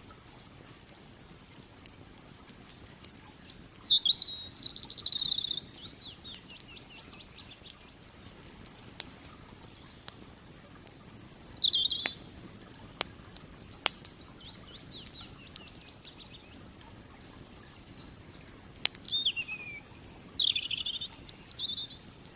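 A small songbird singing three short, trilled phrases, the loudest sound, over scattered sharp pops and cracks from a burning wood campfire and a faint steady rush of flowing creek water.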